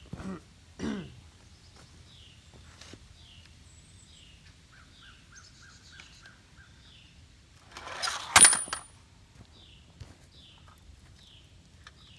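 Birds chirping, a short falling call repeated about twice a second, with a quicker run of chirps in the middle. About eight seconds in comes a brief loud rush of noise ending in a sharp knock.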